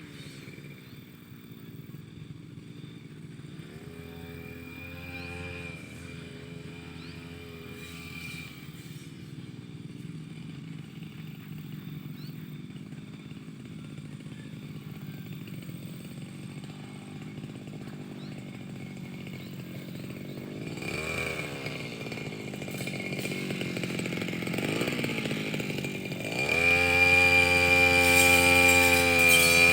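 Petrol brush cutter engine running, its pitch rising and falling as the throttle is worked, then held at high revs and louder near the end.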